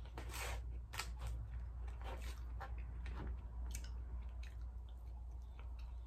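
Close-miked wet chewing and lip smacking of fried rice, with scattered short clicks and scrapes of a plastic fork in a foam takeout box, over a steady low hum.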